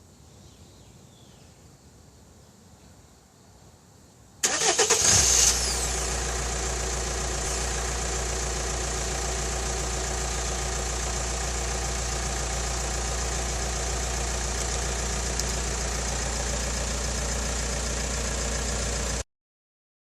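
A Hyundai SUV's engine being remote-started: a short burst of cranking about four seconds in, catching at once and settling into a steady idle. The sound cuts off abruptly near the end.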